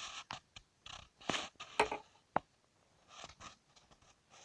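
Handling noise from an earphone and its cord: a few sharp clicks and short scraping rustles, mostly in the first half, then only faint rustles.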